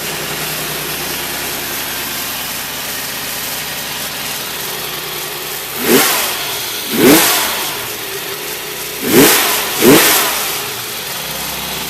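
Chevrolet Cavalier engine idling steadily just after a cold start, with no tick, then blipped four times in quick revs about six to ten seconds in before settling back to idle.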